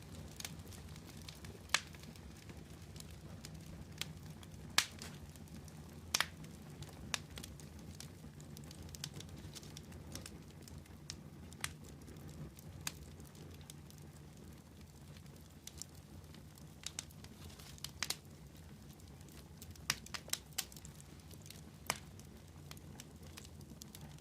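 A wood fire crackling, with irregular sharp pops and snaps, some much louder than others, over a steady low rumble of burning.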